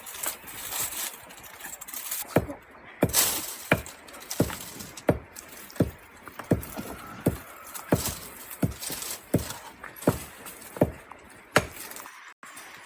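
A steady series of sharp knocks or blows, about one every three-quarters of a second, starting a couple of seconds in and stopping shortly before the end.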